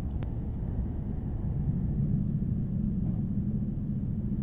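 Steady low rumble of a Hokkaido Shinkansen train running at speed, heard inside the passenger car, with a single short click just after the start.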